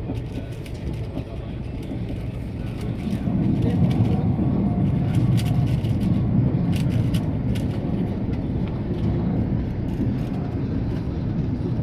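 Passenger train running, heard from inside the carriage: a steady low rumble that grows louder about three seconds in, with faint scattered clicks.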